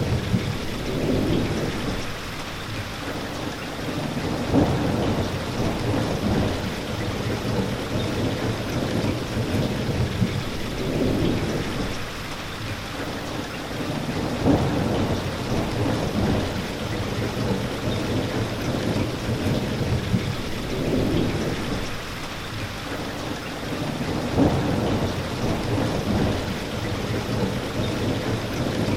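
Steady rain hissing, with low rumbles that swell and fade every few seconds.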